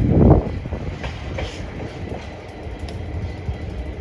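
GWR Class 800 IET passenger train passing at speed, a steady low rumble of wheels on the rails with faint clicks from the track. A loud burst of rumble opens the sound in the first half-second.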